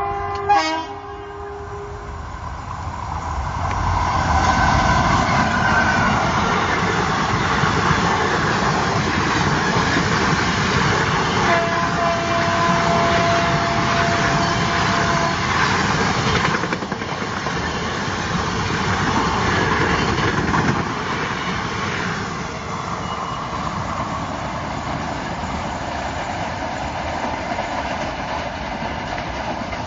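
Passenger train of long-distance coaches running past close by: steady rumble and rattle of the wheels on the rails, loudest for the middle fifteen seconds or so and then fading as the train goes by. A horn cuts off within the first second.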